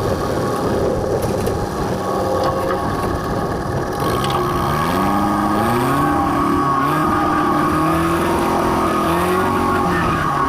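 Farm machine engine running steadily. From about four seconds in, its pitch climbs in several steps and then holds higher, as the engine speeds up.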